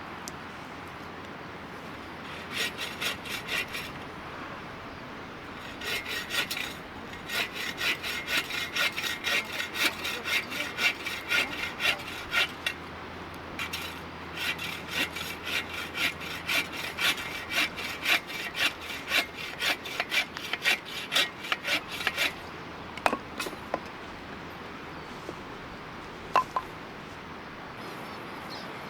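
Fishing reel being wound in: a fast rasping rattle of the reel's gears in several bursts, the longest in the middle, then a few separate clicks near the end.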